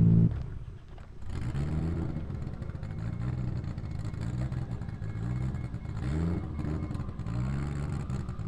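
Nissan Skyline engine running. A loud, steady note breaks off just after the start, then the engine idles with a lumpy rise and fall that repeats roughly once a second.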